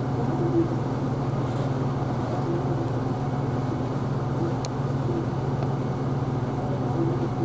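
Isuzu Erga Hybrid city bus heard from inside near the front: a steady low engine hum with light cabin noise, and one sharp click about two-thirds of the way through.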